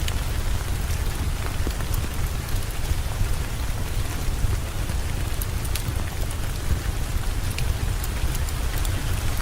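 Heavy rain falling steadily, over a constant deep low rumble, with scattered sharp ticks.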